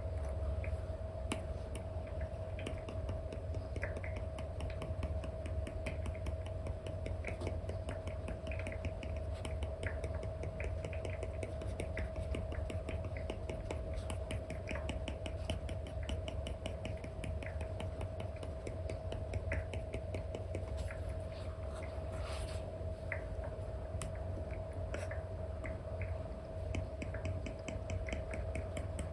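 Apple Pencil 2 with an Elecom nib tapping and stroking on a paper-like film over an iPad screen: irregular light taps and short scratchy strokes, over a steady hum.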